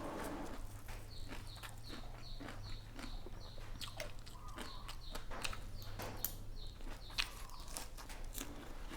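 A person chewing crunchy food in short, even crunches, about three a second.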